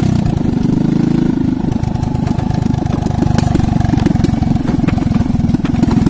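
Small engine running steadily, with a fast, even pulse.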